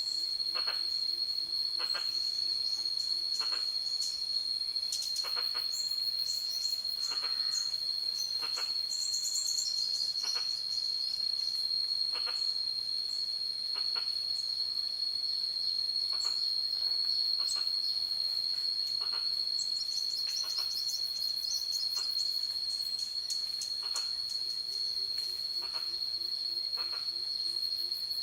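Jungle ambience: a steady, high insect drone of crickets. Over it come scattered high chirps and a short call repeating about every second and a half. A low pulsing trill sounds near the start and again near the end.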